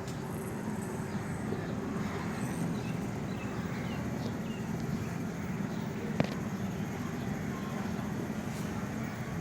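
Steady outdoor background with a low hum, faint distant voices, and one sharp click about six seconds in.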